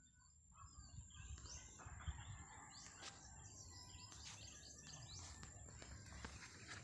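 Faint birds chirping outdoors, with many short calls over a low rumble and a thin, steady high-pitched tone.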